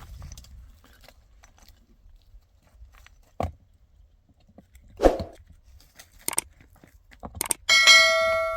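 A few scattered knocks and a clatter of things being handled, then near the end a metal object is struck and rings out with a clear, fading clang.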